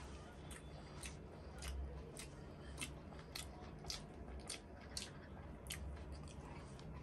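A person chewing fatty local chicken, with short, sharp mouth clicks about twice a second.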